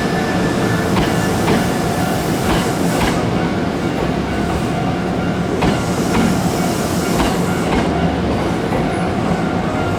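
Hankyu 5000 series electric train rolling into a station as it arrives, its wheels clicking over rail joints at irregular intervals of about half a second to a second over a steady rumble, with a faint steady whine.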